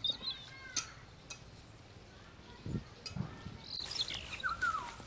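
Birds chirping outdoors in short, quick gliding calls, busiest near the start and again in the last second, with two low thuds around the middle.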